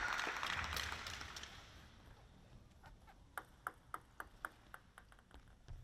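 Crowd applause dying away after a point, then a table tennis ball bouncing in a quick run of sharp ticks, about three or four a second.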